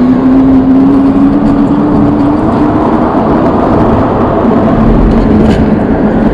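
Wind rushing loudly over the microphone of a moving e-bike, with a whine that rises slowly in pitch over the first couple of seconds.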